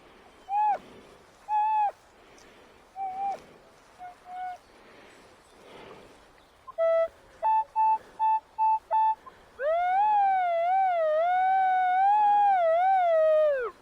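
Metal detector target tones: a few short rising tones, then a quick run of about six even beeps, then a long wavering tone held for about four seconds near the end. This is the detector sounding off over a large buried target, which the detectorist takes for a chunk of metal.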